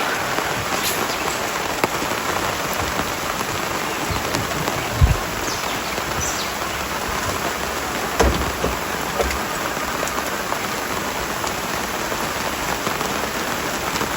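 Steady hiss of rain falling, with scattered small drop ticks and two short low thumps about five and eight seconds in.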